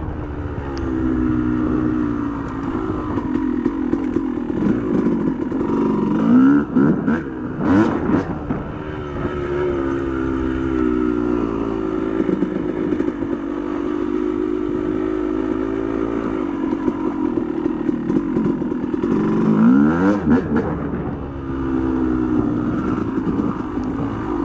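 Yamaha YZ250 250 cc single-cylinder two-stroke dirt bike engine running under way, its pitch rising and falling with the throttle, with sharp climbs about six to eight seconds in and again about twenty seconds in. A rattle can be heard with it, which the rider wonders about.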